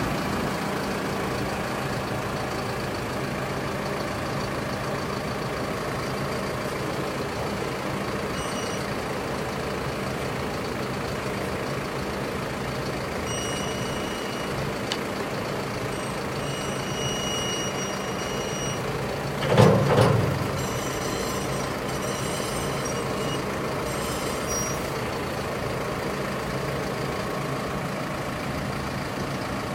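Kubota M7-171 tractor's diesel engine idling steadily, with high-pitched beeping on and off in the middle and one short loud burst of noise about twenty seconds in.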